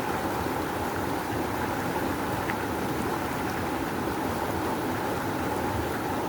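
River water rushing in a strong, steady flow.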